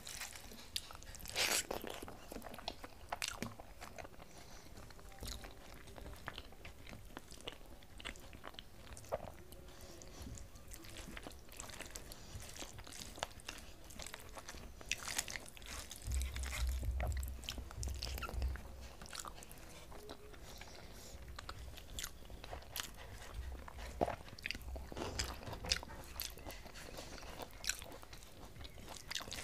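Close-up chewing and biting of a hand-eaten meal of rice, potato and fried flat beans, with many short wet clicks and smacks. A low rumble comes in for about two seconds a little past the middle.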